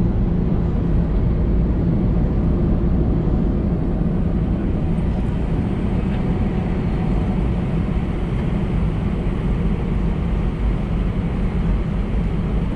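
Steady cabin noise inside an Airbus A319-111 after landing: its CFM56 jet engines and the airframe giving an even low rumble with a faint steady hum, unchanging throughout.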